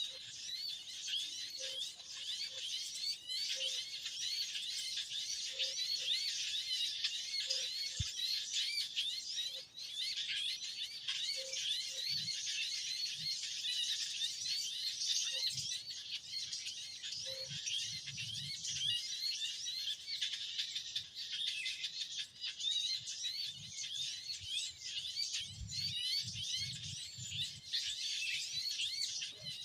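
A noisy chorus of many small birds chirping and twittering at once, with rapid high calls crowding over one another. A faint short low note repeats every second or so in the first half.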